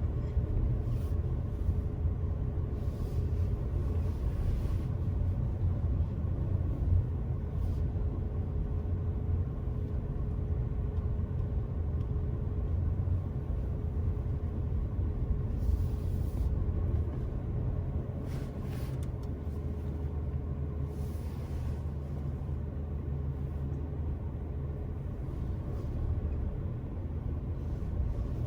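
Car being driven along a road: a steady low rumble of engine and tyres, with a faint steady hum that fades out about three-quarters of the way through and a few brief hisses.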